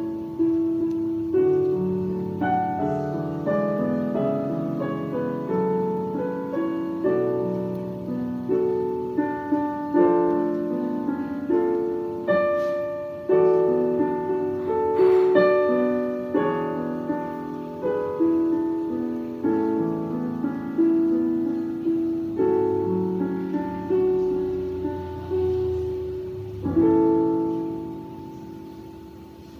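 Solo piano playing a slow elegy in chords, each chord struck and left to ring and decay. A last chord about 27 seconds in rings and fades out.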